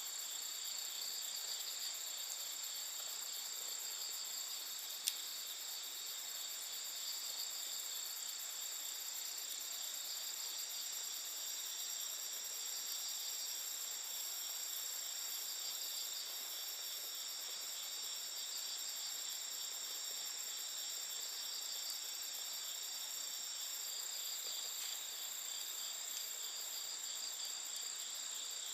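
Night insect chorus: crickets trilling steadily at several high pitches, one of them holding a thin high tone through the middle. A single sharp pop from the burning firewood about five seconds in.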